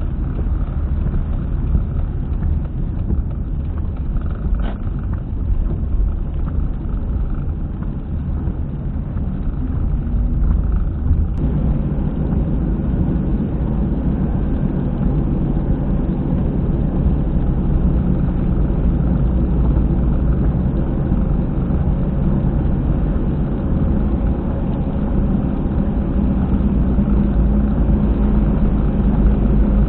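Car at expressway speed, heard inside the cabin through a dashcam, with a heavy low rumbling 'boko-boko' noise from a rear wheel that grows louder about eleven seconds in. The noise comes from a failed rear hub bearing.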